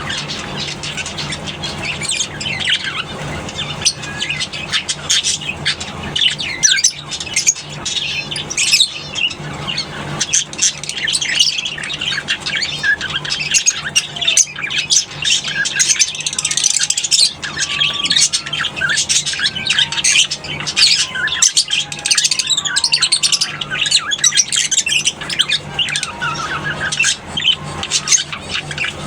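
A colony of lovebirds chattering and squawking, with many shrill, overlapping chirps and calls that never let up. A steady low hum runs underneath.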